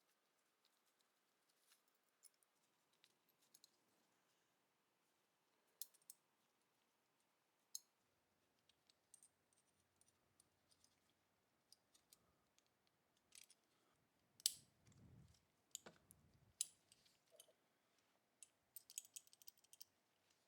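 Scattered light clicks and small metal taps from handling pistol parts and tools at a workbench, sparse at first and busier in the second half, with a couple of sharper snaps and a quick run of rattling clicks near the end.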